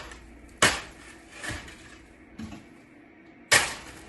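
A mop being struck against built-up ice to knock it off: four separate knocking, scraping strokes about a second apart, the last the loudest.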